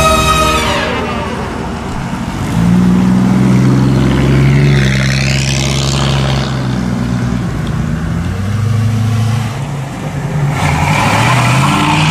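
Classic American cars drive slowly past one after another, their engines running at low revs. Near the end one revs up as it passes close. Music fades out in the first second.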